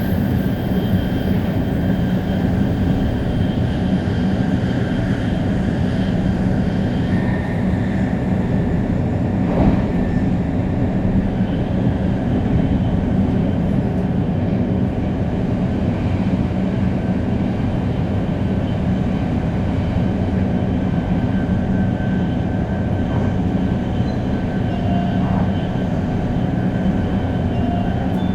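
Shinkansen 500 series train running steadily, its Toshiba GTO-VVVF-driven motors and wheels giving a continuous rumble with faint steady tones above it. A brief knock sounds about ten seconds in.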